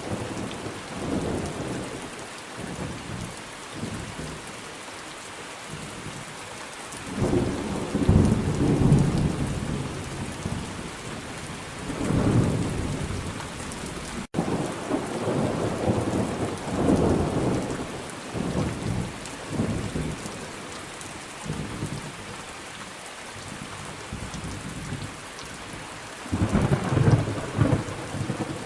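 Thunderstorm: steady heavy rain hissing, with rolling thunder rumbling in repeated swells, loudest about a quarter of the way in and again near the end. The sound drops out for a split second about halfway through.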